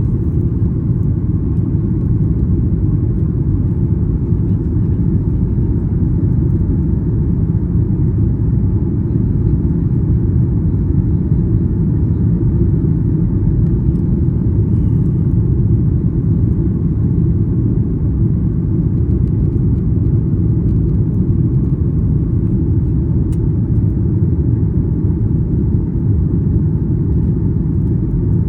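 Steady, loud low rumble of a Boeing 737 MAX 8 heard from inside the passenger cabin: its CFM LEAP-1B engines and the airflow over the airframe, unchanging throughout.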